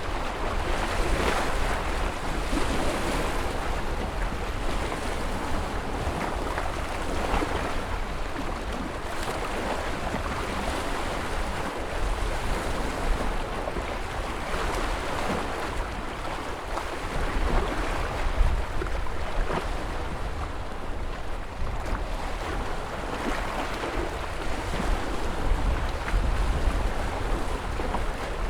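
Ocean surf: a continuous wash of waves breaking and washing in, with a deep low rumble underneath and gentle rises and falls in loudness as the waves come in.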